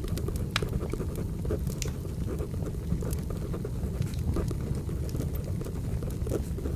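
Firewood burning with irregular sharp crackles and pops over a low steady rumble, mixed with the scratching of a pencil writing on paper.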